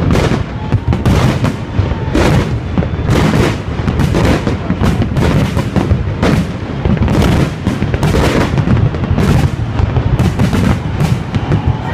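Fireworks display going off in a dense, continuous barrage: many overlapping bangs and booms each second, with no pause.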